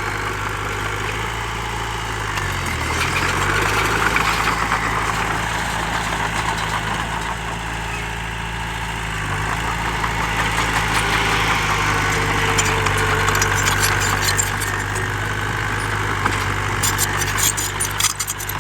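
Heavy earthmoving machine's diesel engine running steadily near idle, its pitch dipping briefly and recovering about three seconds in, with a mechanical clatter that swells and fades.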